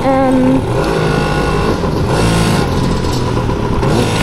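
Yamaha PW80 dirt bike's small two-stroke single-cylinder engine running as the bike is ridden, its pitch shifting a little with the throttle.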